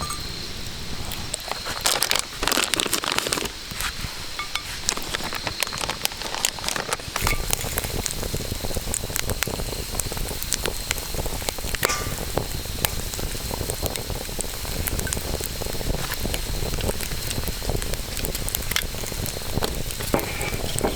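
Wood campfire crackling, with many small sharp pops and snaps over a steady hiss, and a louder rustling stretch about two seconds in.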